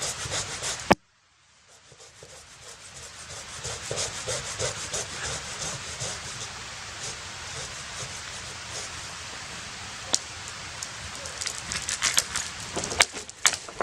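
A saw cutting through dead standing cedar in rasping strokes. The sound breaks off abruptly about a second in, then fades back into more rasping and scraping of the wood, with a few sharp knocks near the end.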